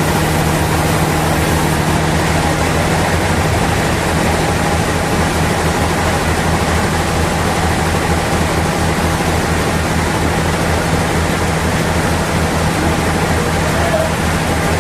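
Sawmill machinery running steadily: broad, even noise over a low, constant hum, with no change across the whole stretch.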